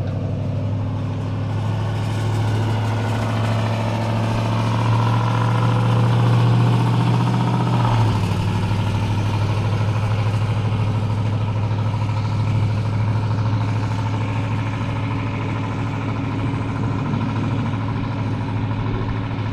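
Caterpillar 257B skid steer's diesel engine running steadily, its note dropping slightly about eight seconds in.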